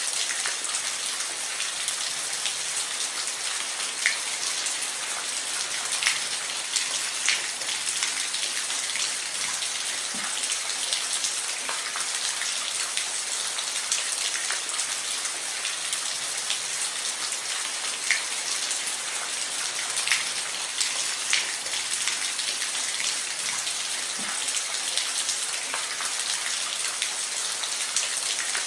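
Steady rain falling on a roof: an even hiss with scattered louder drips and taps.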